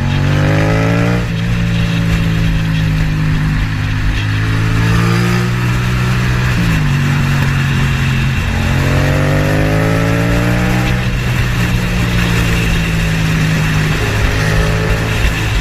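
A motor vehicle engine accelerating, its pitch rising and then dropping back as it shifts up a gear, twice. A steady low drone runs beneath it.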